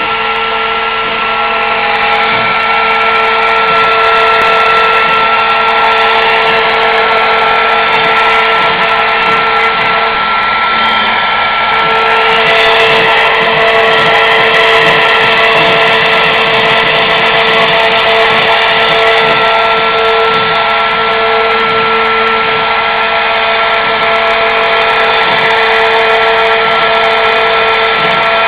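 CNC milling-engraving machine spindle running steadily with a steady whine, its 3 mm cylindrical end mill rough-cutting oak with a continuous cutting noise.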